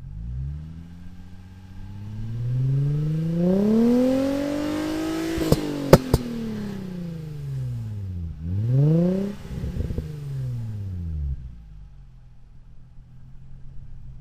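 Nissan 350Z's 3.5-litre V6 breathing through a straight catalyst, Fujitsubo Y-pipe and Fujitsubo titanium muffler, revved slowly up for about five seconds and let fall, then given a shorter blip and dropped back to a steady idle. Two sharp cracks come just after the first peak.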